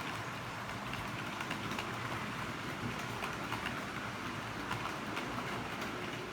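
HO-scale model train running on the layout track: a steady whirr with many small clicks from the wheels on the rails.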